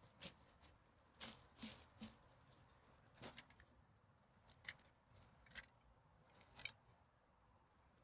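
Faint, irregular rustles and crackles of forest-floor litter being disturbed as someone moves about picking up rubbish, about a dozen short scrapes and snaps spread unevenly.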